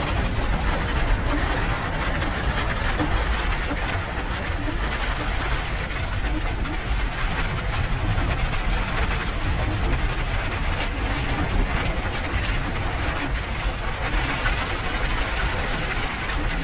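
Steady rain with an even hiss and a deep low rumble underneath.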